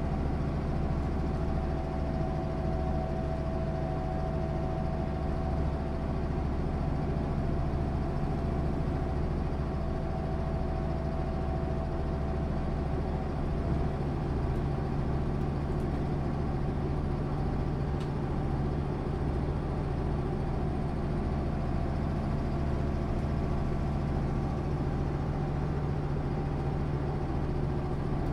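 1996 MAN SÜ 272 bus's diesel engine running steadily, a continuous low drone, with a faint whine that fades out in the first half.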